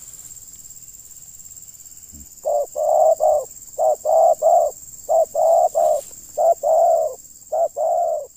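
Spotted dove (terkukur) cooing: starting about two and a half seconds in, five short phrases of about three mellow coos each, repeated with brief pauses.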